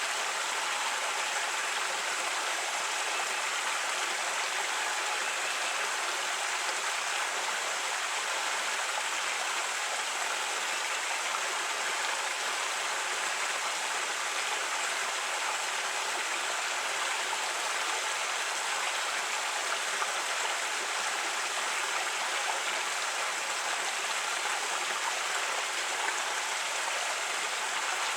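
Creek water running steadily over rocks, a continuous rushing and babbling with no change in level.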